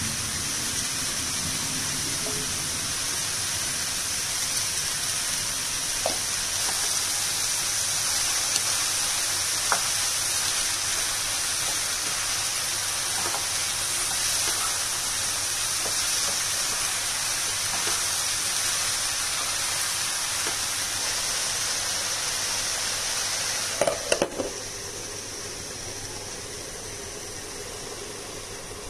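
Chopped ridge gourd and onions sizzling steadily in a pan, with a few light taps of a wooden spatula as they are stirred. About 24 seconds in, a few sharp clacks as a glass lid goes on the pan, after which the sizzle is quieter and muffled.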